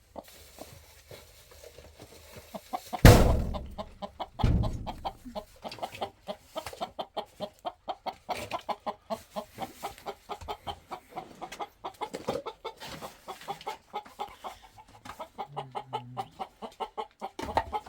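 Chickens clucking in quick, repeated short clucks. A loud thump comes about three seconds in, and a second one a second and a half later.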